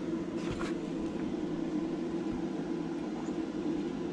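Stick-welding arc with a 6011 rod burning steadily on thin, rusty and painted sheet metal: an even hiss with a low hum underneath.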